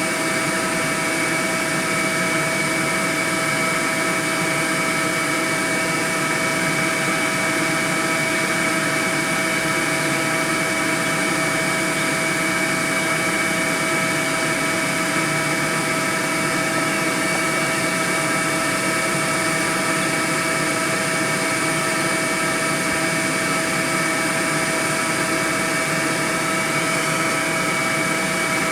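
A honeybee swarm buzzing: the steady, dense hum of many bees, unchanging throughout.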